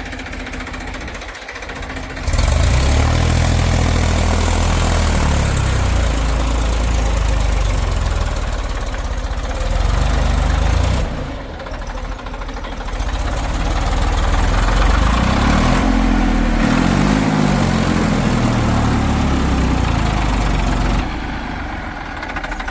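Heavy diesel engine revving up and down as it works. It comes in two long loud stretches, with a dip between them about halfway through and a drop back near the end.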